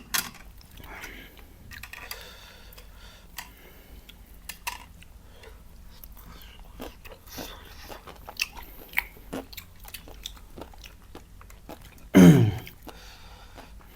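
Close-miked eating: chewing and biting of food, with many short clicks and crunches. About twelve seconds in comes a short, loud voice-like sound that drops steeply in pitch.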